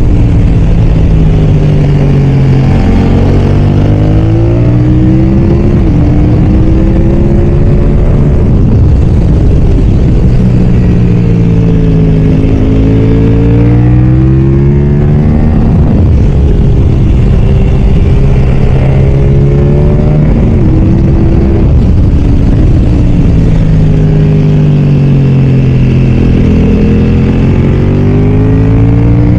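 BMW F900R's parallel-twin engine at racing speed, revving up hard and dropping back again and again as the bike accelerates and slows through a lap.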